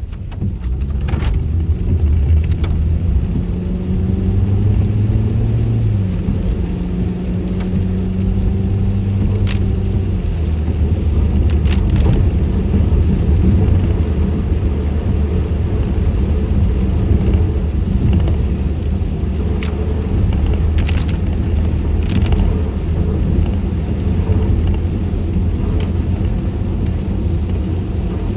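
Car interior road noise with the windows up: a steady low rumble of engine and tyres on wet pavement. The engine note climbs over the first few seconds, drops about six seconds in, then holds steady, with a few faint ticks scattered through.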